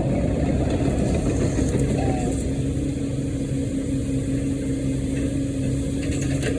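An engine running steadily at idle, with a low rumble and a steady hum that becomes clearer about halfway through.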